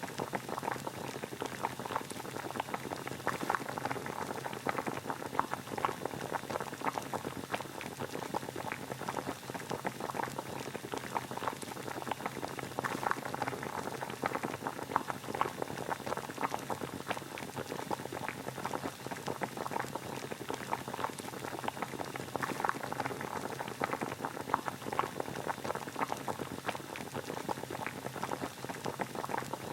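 Water at a rolling boil, a steady dense bubbling and popping.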